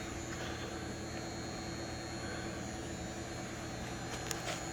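Steady electrical hum with a faint high-pitched whine over a hiss of background noise, and a few light clicks near the end.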